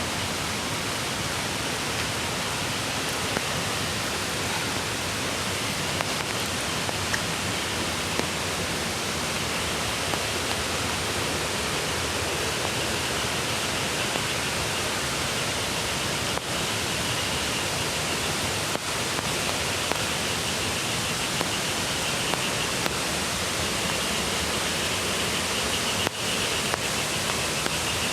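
Mountain creek water rushing steadily, an even noise with a higher hiss that swells in the second half.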